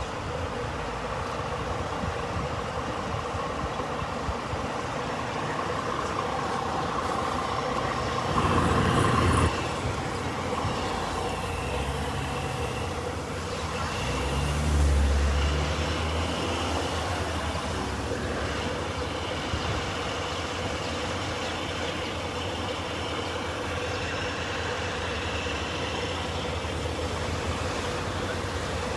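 Heavy vehicle engine running steadily with a low drone. There is a louder noisy burst about eight and a half seconds in, and a deeper rumble swells and fades around the middle.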